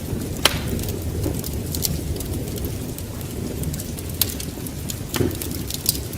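Wood fire crackling, with sharp pops about half a second in, about four seconds in and just after five, over a steady low rumble of rain and wind.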